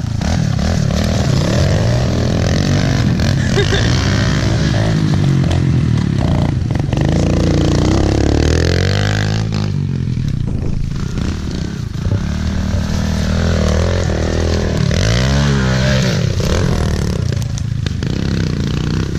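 Small motorcycle engine being ridden, revving up and down several times. It has a clogged pilot jet, so it is kept on the throttle rather than left to idle.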